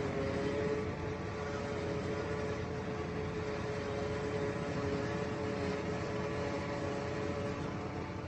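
A machine or engine running steadily, with a low rumble under a constant hum.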